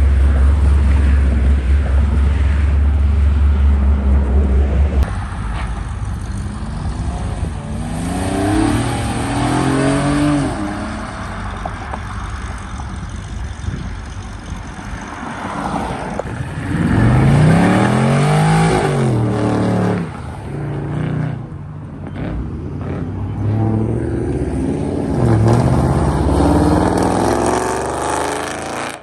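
Chevrolet Camaro SS V8 with a choppy idle, revved three times, each rev rising and falling back to idle.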